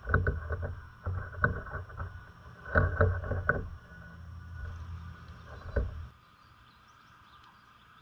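Irregular knocks and thumps, in quick clusters and then one last knock, from a small bird hopping and pecking on a wooden feeder platform.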